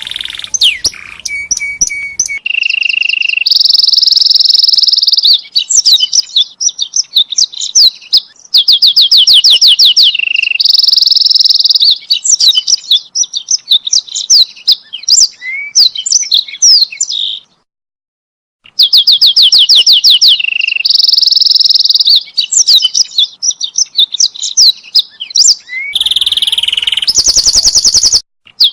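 Canary singing a long, varied song: fast trills of rapidly repeated notes alternate with held, buzzing tones and quick sweeping notes. The song breaks off for about a second roughly two-thirds of the way through, then resumes.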